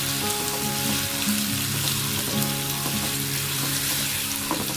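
Food frying in hot oil in a pan, with a steady sizzle. Background music with held notes plays underneath.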